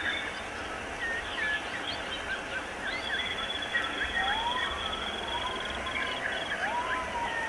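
Bird calls: many short chirps, a steady high trill through the middle, and a few lower slow rising-and-falling whistles in the second half, over an even hiss.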